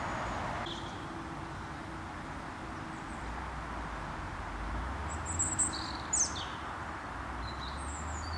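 A few short high bird chirps about the middle, over a low steady outdoor rumble; a soft hiss cuts off just under a second in.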